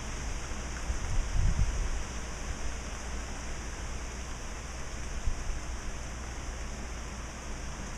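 Steady rain falling, an even hiss, with wind still moving through the trees. Between about one and two seconds in, low rumbles of wind gust across the microphone, and there is one more short bump a little after five seconds.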